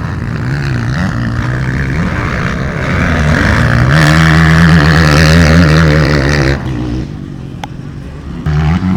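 Motocross motorcycle engines running hard, rising in pitch and loudness about three to four seconds in and held at high revs. They back off sharply past the middle and pick up again near the end.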